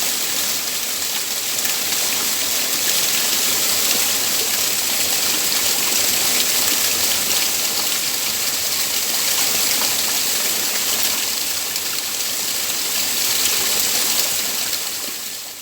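Waterfall rushing: a steady hiss of falling water that fades out near the end.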